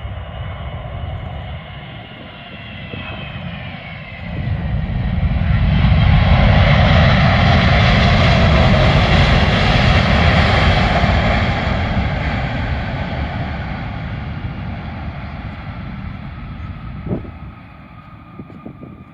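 Boeing 777-200ER jet engines during landing: the engine whine falls in pitch, then about four seconds in the engine noise surges loudly, holds for several seconds and slowly dies away. A single short knock comes near the end.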